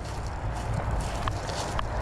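Footsteps crunching through undergrowth, a run of short uneven steps, over a steady low rumble of road traffic.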